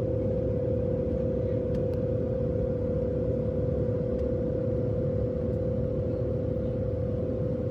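Airliner cabin noise in flight: a steady low rumble of jet engines and airflow, with one constant mid-pitched hum running through it.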